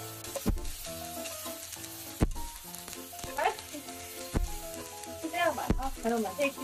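Egg, ham and vegetable pieces sizzling in a nonstick frying pan as they are stirred and pushed about with chopsticks. Background music plays over it, with a few sharp low thumps.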